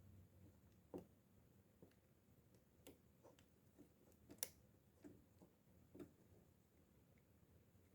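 Faint, irregular light clicks and taps, about half a dozen spread over several seconds, the sharpest a little past the middle: small fishing reel parts being handled.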